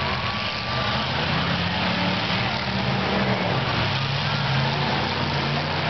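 Several demolition derby cars' engines running together, a steady, dense mix of engine noise.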